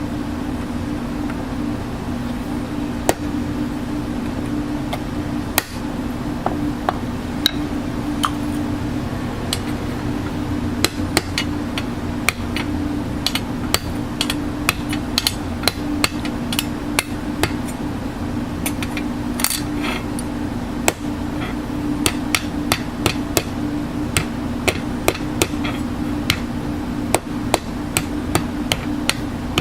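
A hammer tapping on metal, in irregular sharp knocks that come sparsely at first and quicker from about ten seconds in, over a steady low machine hum.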